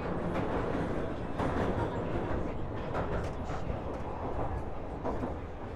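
London Underground train running through a tunnel: a steady rumble with scattered wheel clacks and rattles.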